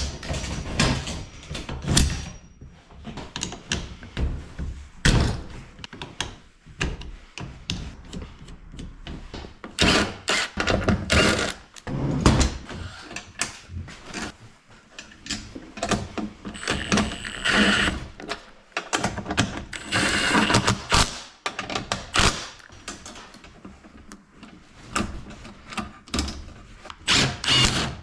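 Irregular knocks, clanks and rattles of hand tools and metal parts being handled during work on a garage door opener powerhead, with denser clatter in a few busy stretches.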